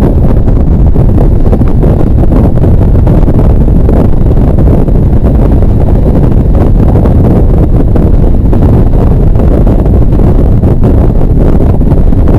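Wind buffeting an action camera's microphone at riding speed, over the running of a Harley-Davidson V-twin motorcycle. The sound is loud, steady and low.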